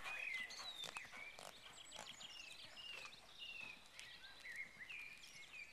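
Birds singing: many short chirps and falling whistled notes, with scattered sharp clicks.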